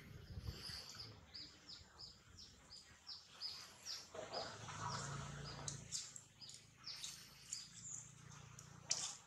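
A bird calling faintly: a short, high, falling chirp repeated about three times a second for roughly six seconds, then stopping.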